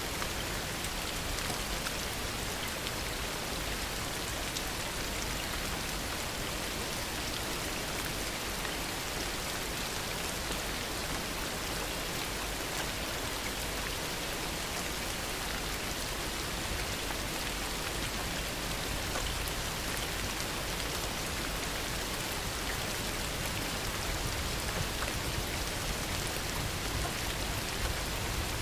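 Heavy rain falling steadily, a dense even patter of drops with no change in intensity and no thunder.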